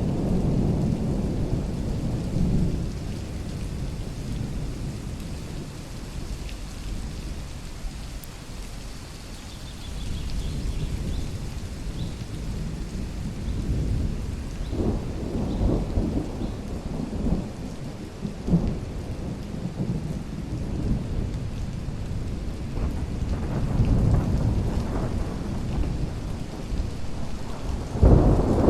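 Rain in a forest over a low rumbling that swells and fades, loudest at the start and again near the end, with a few short surges in between.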